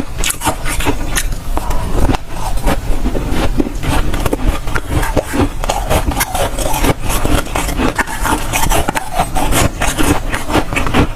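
Dry, soft freezer frost being bitten and chewed close to the microphone: a quick, irregular run of crunches.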